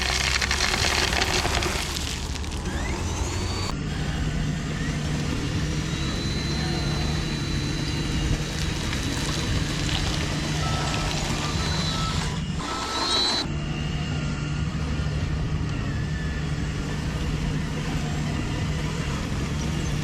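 Radio-controlled construction models working: a steady motor and engine hum with a thin high whine. The sound breaks off abruptly about four seconds in and again around thirteen seconds in.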